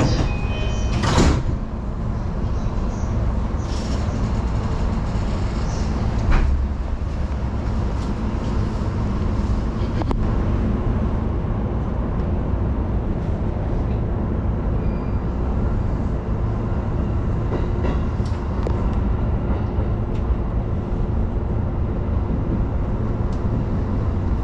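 JR Yokohama Line electric train heard from on board: a couple of sharp knocks, the loudest about a second in and again about six seconds in, fitting the doors shutting, then the train's steady running rumble of wheels on rail.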